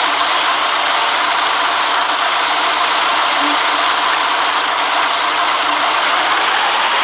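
City bus on the move: a steady hiss of road and engine noise with a faint hum, no change through the stretch.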